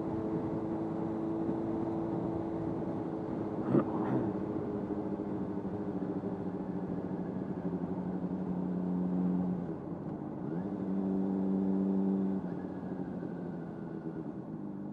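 Honda CBR600RR inline-four engine running at steady road speed, heard through a mic in the helmet lining over road and wind noise. About ten seconds in the engine note dips briefly and picks up again, and near the end it eases off a little. There is a short knock about four seconds in.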